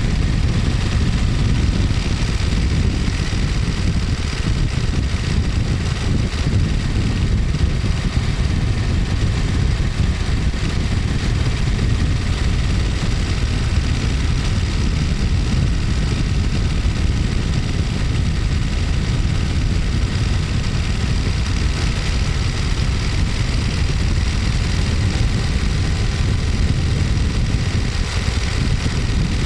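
Ducati Monster 1200S's L-twin engine and exhaust running steadily while the bike is ridden, with no big revs.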